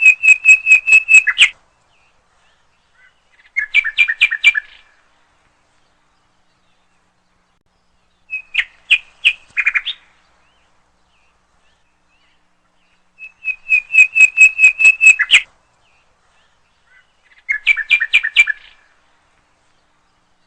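A bird singing loudly in five short bursts, a few seconds apart. Each burst is a quick run of sharp, repeated whistled notes lasting one to two seconds.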